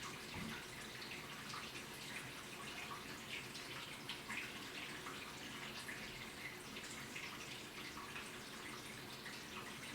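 Washing machine with water sloshing and dripping in the drum: a steady run of many small splashes and drips.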